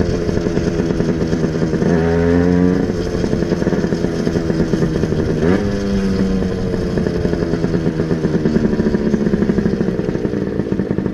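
Motorcycle engine running under way, its pitch climbing about two seconds in and again sharply at about five and a half seconds, and otherwise slowly falling.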